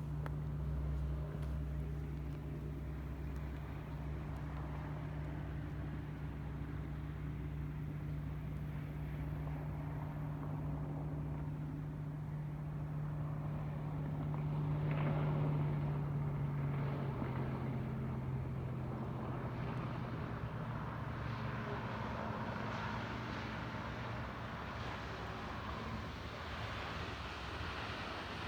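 A road vehicle running with a steady low engine drone and road noise; the hum drops slightly in pitch a little past halfway.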